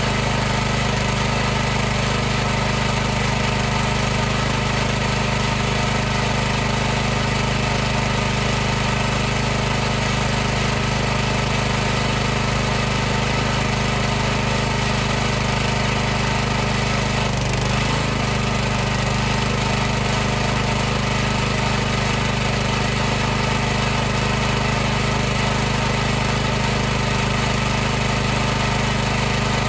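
High-pressure washer running steadily: a loud, continuous mechanical hum of pump and motor at a constant pitch, with a brief wobble about halfway through.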